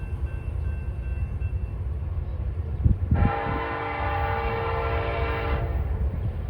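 Nathan K5LLA five-chime locomotive air horn sounding one long blast of about two and a half seconds, over a steady low rumble.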